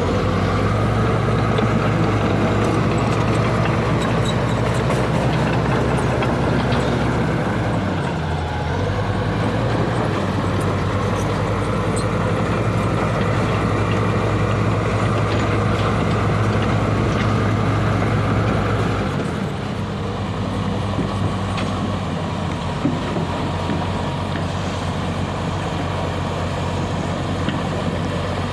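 Heavy diesel engines of road-construction machinery running steadily. The engine note dips briefly about eight seconds in, then settles lower and a little quieter after about nineteen seconds.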